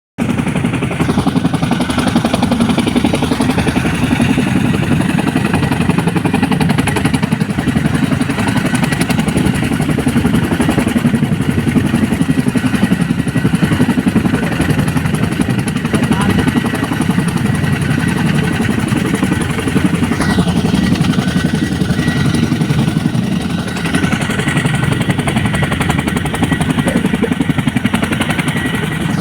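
Helicopter running steadily: a fast, even rotor beat under a faint high whine.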